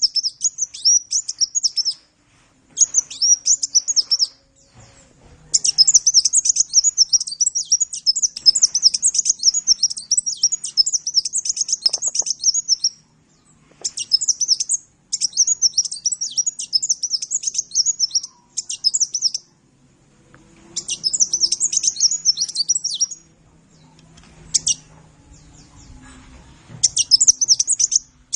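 Sunbird, the 'kolibri' of Indonesian songbird keepers, singing a rapid, high-pitched twittering song in bursts of a few seconds with short pauses between.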